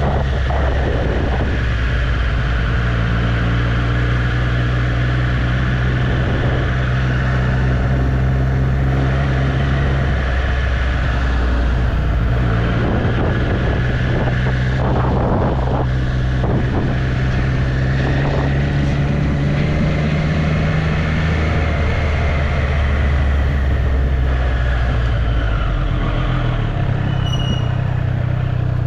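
Triumph Street Triple's inline three-cylinder engine running under way at steady cruising revs, its note dropping briefly about ten and fifteen seconds in and falling again near the end as the throttle or gear changes.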